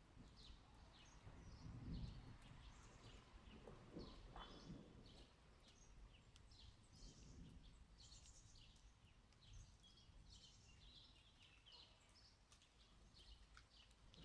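Faint, scattered chirping of small birds in a lull between thunder, with a faint low rumble of distant thunder about two seconds in.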